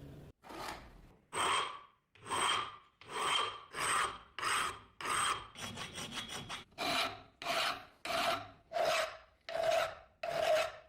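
A hand file rasping across a steel axe head in regular long strokes, about one and a half a second, with a quick flurry of short strokes midway. Each stroke carries a ringing tone, which sits lower in the second half.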